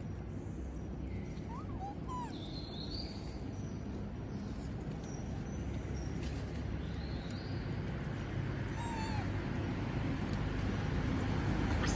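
A monkey giving a few short, high squeaky calls, a pair about two seconds in and one more near nine seconds, over a steady low rumble of background noise.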